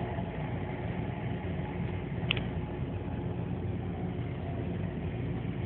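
Subway train running, a steady low rumble heard from inside the car, with a brief click about two seconds in.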